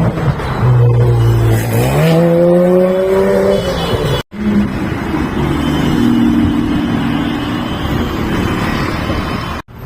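Supercar engine running loudly, then revving up, its pitch rising for a couple of seconds. The sound cuts out abruptly near the middle and resumes as a lower, steadier engine note, then cuts out again just before the end.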